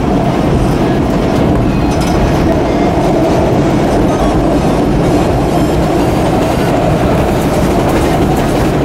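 A PATH train car running on the rails, heard from inside the car as a loud, steady rumble.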